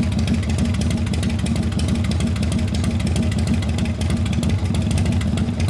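Harley-Davidson Evolution 1340 cc V-twin of a 1991 FXDB-S Dyna Glide Sturgis idling steadily through its exhaust, a continuous low run of firing pulses.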